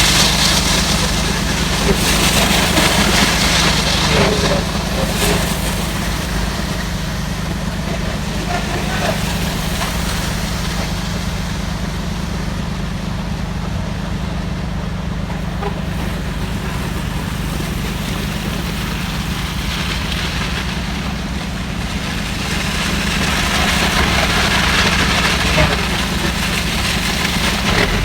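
A heavy truck's engine idling steadily at a low pitch, with traffic swishing past on a wet road near the start and again near the end.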